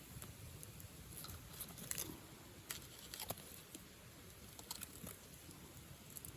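Wood bonfire crackling: irregular sharp pops and snaps, a few at a time, over the low steady rumble of the burning fire.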